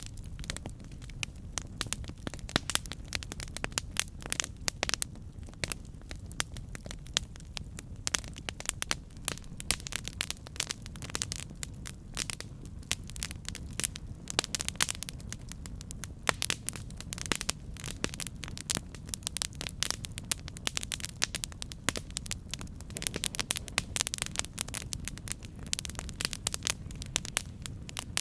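Campfire burning: dense, irregular crackles and pops of burning wood over a steady low rumble of the flames.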